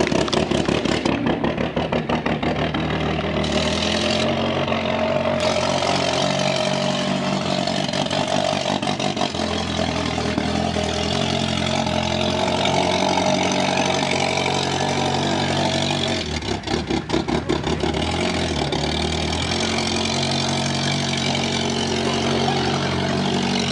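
Car engine running throughout, its pitch shifting up and down several times as the car is driven and revved across the field.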